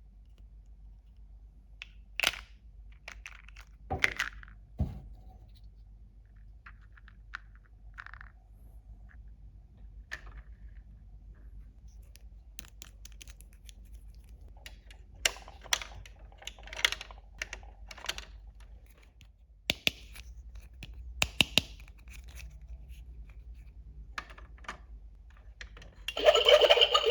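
Small plastic toy kitchen pieces being handled: scattered clicks, taps and short scrapes and rustles. About a second before the end a louder, steady rushing noise starts.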